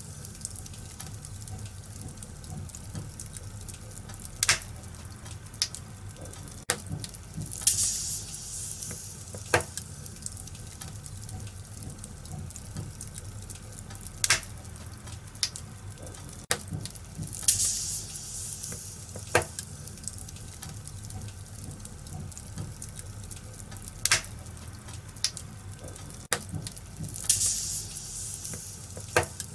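Wood fire crackling in a fireplace: a steady low rumble and hiss with sharp pops every second or two, and short bursts of louder hiss about every ten seconds.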